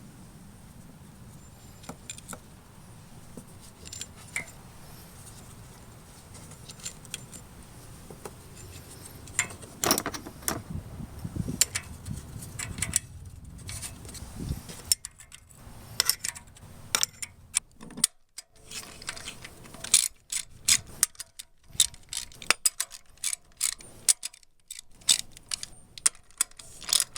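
Metal clinks and rattles, like hand tools and small metal parts being handled, as sharp separate clicks. A low rumble runs under them for about the first half, then stops, leaving the clicks on their own.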